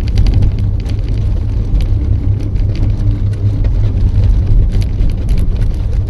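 Subaru car driving on an icy, snowy road with tire cables fitted: a steady low rumble from the road and tires inside the cabin, with irregular rapid clicks and clatter.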